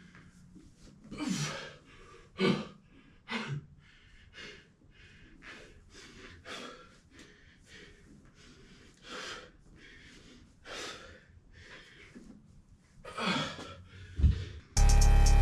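A person breathing hard from exercise, short puffed breaths about once a second with a few louder gasps. Loud music cuts in suddenly near the end.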